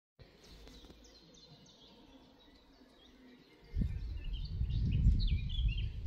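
A small bird chirps a series of short, high, quickly repeated notes. About three and a half seconds in, a loud, low rumbling noise starts suddenly and carries on under the chirps.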